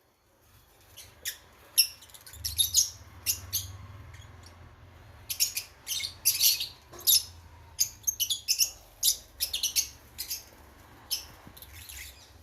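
Fischer's lovebirds making short, high-pitched chirps and squeaks, in quick irregular clusters.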